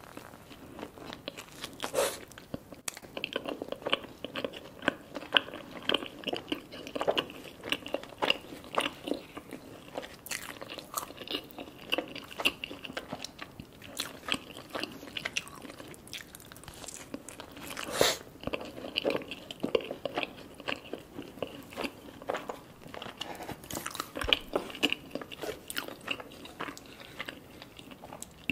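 Close-miked chewing and biting of garlic naan soaked in butter chicken sauce: wet mouth sounds and many small clicks, with a sharper bite about two seconds in and another later on.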